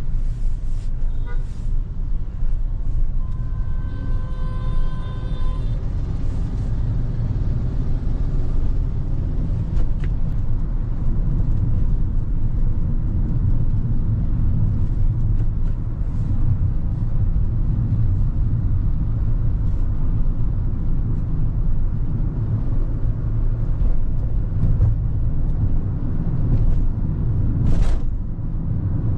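Hyundai Creta's 1.5-litre petrol engine and tyre noise heard from inside the cabin while driving, a steady low rumble. About three seconds in, a held tone lasting a couple of seconds sounds over it, and a few short clicks come and go.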